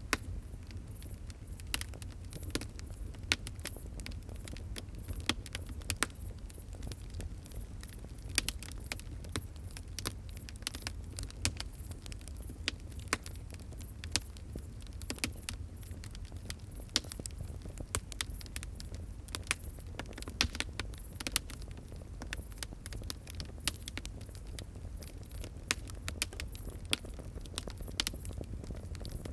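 Wood fire crackling, with frequent irregular sharp pops and snaps over a steady low rumble of burning.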